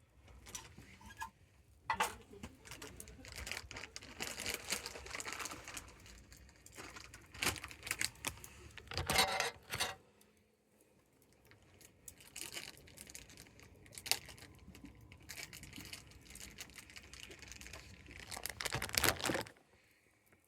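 Campfire crackling with many irregular pops, in dense stretches about nine seconds in and again near the end, easing off briefly in between.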